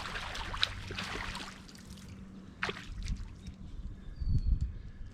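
Water splashing and sloshing as a hooked carp thrashes at the surface while being landed, strongest in the first second and a half. A few sharp knocks follow, then a couple of low thumps near the end.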